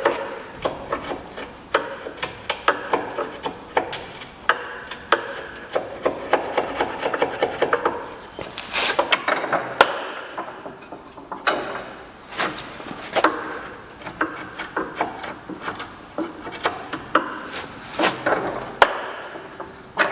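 Hand work on white oak parts: wood rubbing and scraping, with many irregular light knocks and clicks of wood on wood or tool on wood.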